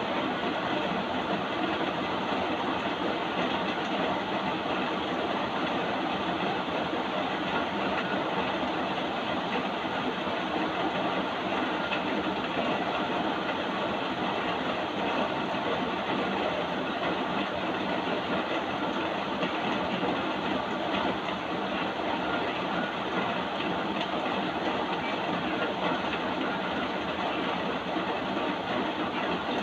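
Steady rain, a continuous even hiss that neither swells nor breaks, sounding dull with little top end.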